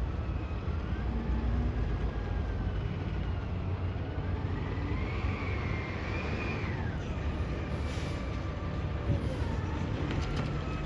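Garbage truck's engine running with a steady low rumble, joined by a high whine that rises in pitch about four seconds in, holds, and drops back near seven seconds.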